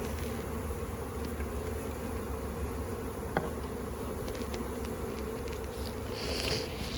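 A honey bee swarm buzzing: a steady hum of many bees flying around a freshly filled hive box. A single light knock about three seconds in.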